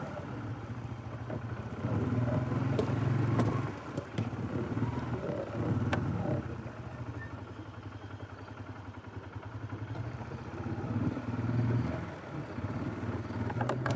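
Polaris ATV engine running at low speed in four-wheel descent on a steep downhill, its note swelling and easing several times. A few sharp knocks come from the machine working over rough ground.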